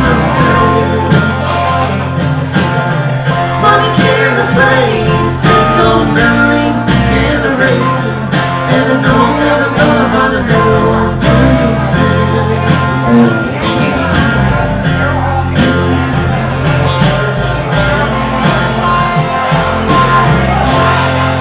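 Live band playing a blues-country song: guitars and bass over a steady percussion beat.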